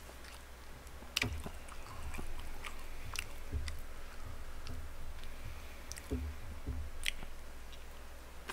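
Close-miked eating of boneless fried chicken: chewing and biting with wet mouth sounds, broken by scattered sharp clicks of wooden chopsticks picking at the food.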